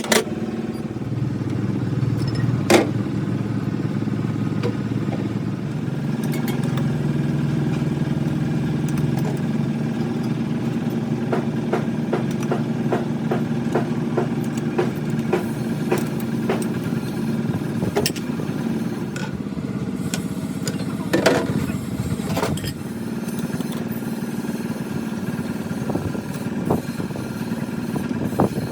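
A steady low machine hum, with scattered sharp metal clicks and knocks over it, a run of quick ticks in the middle, and a few louder knocks near the start and about three-quarters of the way through.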